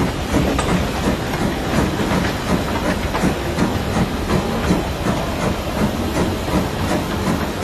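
Small tourist train running along narrow-gauge track, heard from on board: the wheels clack in an even rhythm over a steady hiss.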